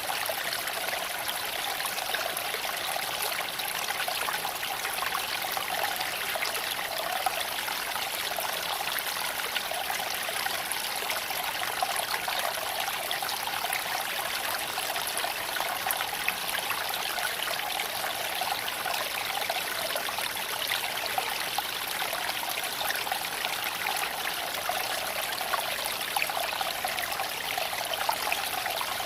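Creek water flowing and trickling over stones in a steady rush, with small sharp ticks scattered throughout.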